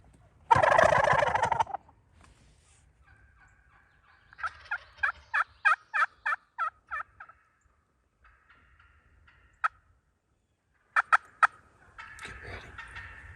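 Wild turkey gobbler gobbling loudly about half a second in, followed by a run of about a dozen evenly spaced hen-turkey yelps, then a single yelp and three quick ones near the end.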